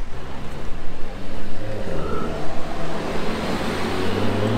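Car engine running low and steady amid street traffic, its note growing stronger near the end as a car comes closer.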